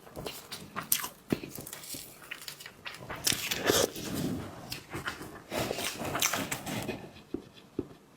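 Close-miked eating of seafood: sharp clicks and cracks of shell, with longer wet sucking and slurping stretches about three seconds in and again about six seconds in.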